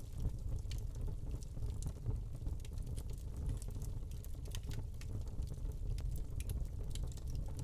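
Wood log fire burning in a fireplace: irregular sharp crackles and pops over a steady low rumble.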